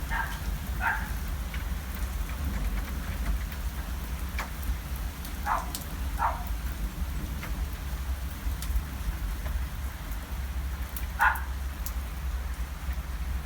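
Heavy rain mixed with hail pouring down steadily, with scattered sharp ticks of hailstones striking and a low rumble underneath. Five short high calls stand out: two near the start, two around the middle and one near the end.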